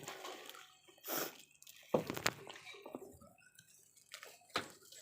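A few short, scattered clinks and rustles of bowls and spoons being handled, over a quiet background.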